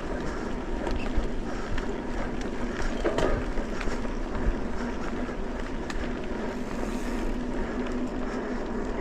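Mountain bike riding a dirt trail: steady rolling rumble and wind noise with a faint steady hum and scattered clicks and rattles.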